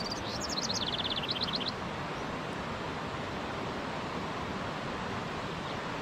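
A songbird sings one short, fast trill of high notes falling in pitch and ending in a few separate notes, lasting about a second and a half, over a steady rush of running water.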